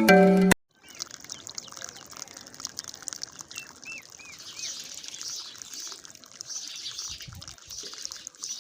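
A music tune cuts off about half a second in. Then water runs steadily from a small DIY pump-fed water tanker, with a few bird chirps.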